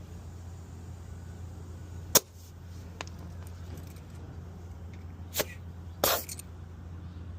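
Sharp clicks and short bursts of air hiss from a truck tire inflator's chuck being pushed onto a tire valve, three times, the last burst the longest, over a steady low hum.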